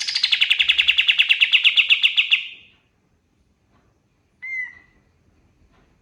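A pied triller (kapas tembak) singing a loud, fast trill of about eleven notes a second that starts high and drops, then stops. A single short whistled note follows near the end.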